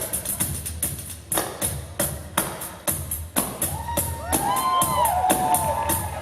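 Pandeiros, Brazilian frame drums with jingles, played together live in a fast, even rhythm over a low drum. From about three and a half seconds in, high pitched sounds glide up and down over the beat.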